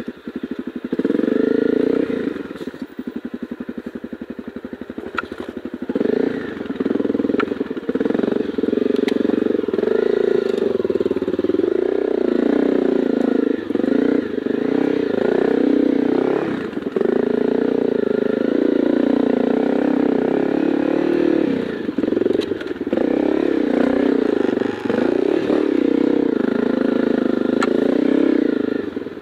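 Honda CRF250L's single-cylinder four-stroke engine starting up, then running at low revs with an even pulse for a few seconds. From about six seconds in, the revs rise and fall constantly as the bike climbs a rocky dirt trail.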